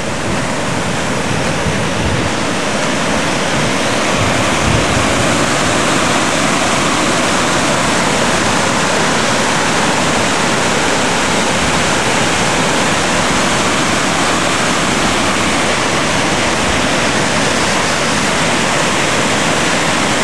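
Flash-flood water rushing hard and steadily: a swollen stream flowing over its banks and across a driveway.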